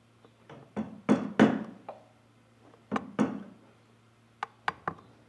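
Irregular knocks and taps of wood-carving tools striking wood, about a dozen blows in uneven groups. The heaviest pair comes about a second in, and a run of quicker, sharper taps comes near the end.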